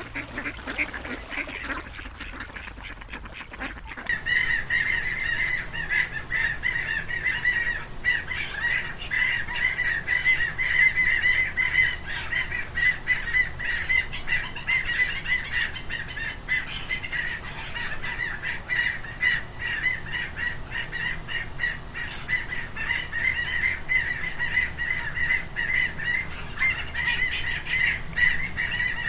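Ducks calling. About four seconds in, the sound changes abruptly to a dense, unbroken chatter of many ducks calling at once: a flock, higher in pitch than the calls before it.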